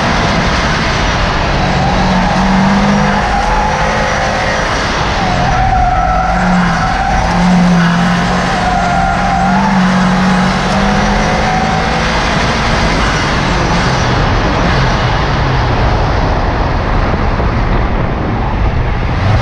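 Subaru Impreza WRX STi's turbocharged flat-four engine driven hard on a hillclimb run, its pitch rising and falling through the bends, over a loud steady rush of road and wind noise at the car.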